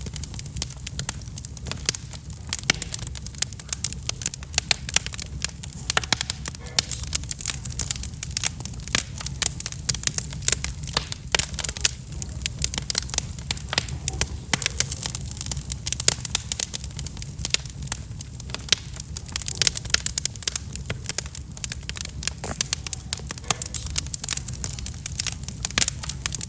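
Wood fire burning in a fireplace, with dense irregular crackles and pops over a steady low rumble of the flames.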